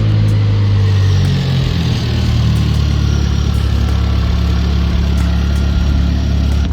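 Car engine running, its revs dropping about a second and a half in and then settling into a steady idle.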